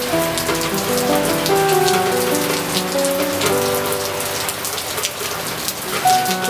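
Steady rain falling, the hiss dotted with many sharp drop ticks, with a slow piano melody playing over it.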